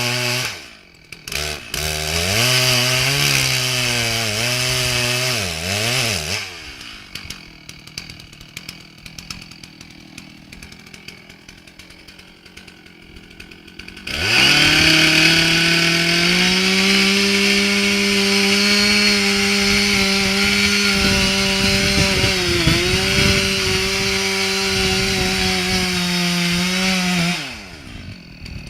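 Chainsaw engine running at varying revs, briefly dropping about a second in, then falling quieter for several seconds. About halfway through it revs up to a loud, steady high pitch and holds there for about 13 seconds with one brief dip, then drops off near the end.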